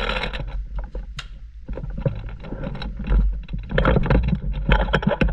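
Rumbling noise on the microphone with scattered rustling and clicking, busiest about a second before the end.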